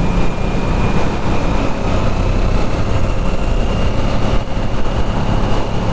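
Motorcycle engine running steadily while riding, its low drone laid under an even rush of noise.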